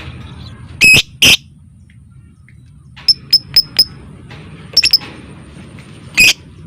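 Lovebird giving shrill calls: two loud calls about a second in, then a run of four short ticking chirps about three seconds in, a quick cluster near five seconds and one more loud call near the end.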